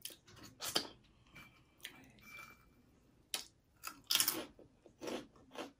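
Close-miked eating sounds of a person biting and chewing crunchy taco salad made with broken taco shells: a string of short crisp crunches and mouth clicks, the loudest about four seconds in.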